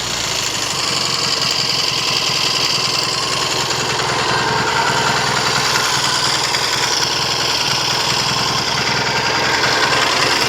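Triumph TR6 650 cc parallel-twin motorcycle engine idling steadily while hot after a run, on a freshly rebuilt top end with new pistons and a 108 needle jet in the carburettor.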